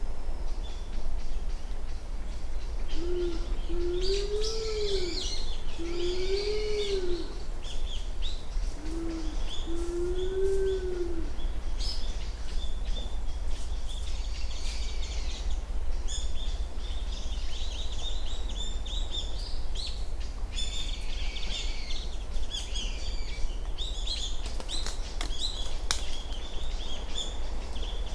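Japanese wood pigeon (karasubato) cooing low 'u-uu' phrases twice, from about three to eleven seconds in; each phrase is a short note followed by a longer note that rises and falls. Small birds chirp high throughout.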